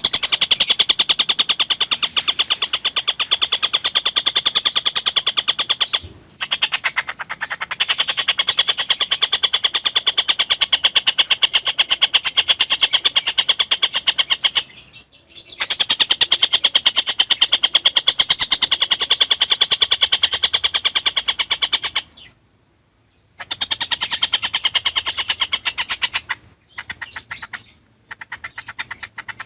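Tengkek buto kingfisher singing long fast rattling phrases of rapidly repeated high notes, each phrase lasting several seconds, with short breaks between them.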